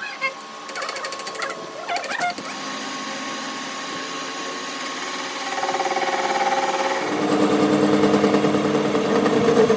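A workshop machine's motor running with a steady pitched hum. It grows louder about halfway through and again a couple of seconds later, after a few short rattling buzzes near the start.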